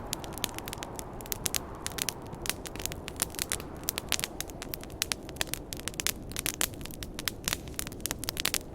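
Wood fire crackling, with many sharp pops at irregular times, several a second, over a steady low rushing noise of the snowstorm wind.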